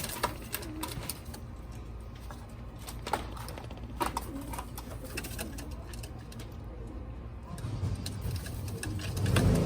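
Pigeons cooing, with scattered sharp clicks and taps. A low rumble builds over the last two seconds.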